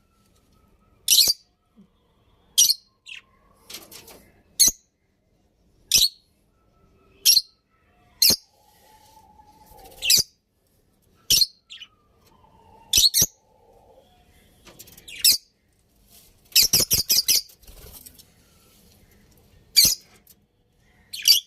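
Budgerigars chirping: short, sharp, high-pitched calls about every second and a half, with a quick run of several calls about three-quarters of the way through.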